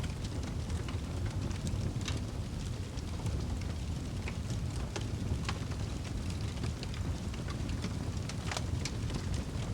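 Wood fire burning in a fireplace: a steady low roar of the flames with scattered sharp crackles and pops from the burning logs.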